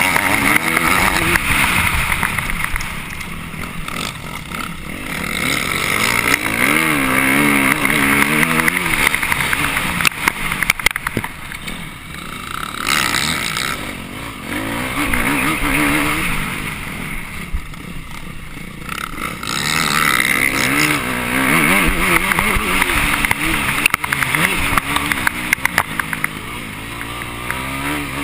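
Off-road motorcycle engine heard from an onboard camera, revving up and backing off over and over as the bike is ridden around a dirt course, the pitch climbing and dropping with each burst of throttle.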